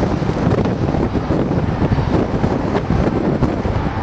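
Wind buffeting the microphone over the steady rumble of a distant Union Pacific manifest freight train rolling along, with a few faint clicks.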